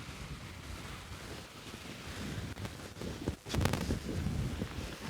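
Wind buffeting the microphone over the wash of sea surf, with a few sharp knocks about three and a half seconds in.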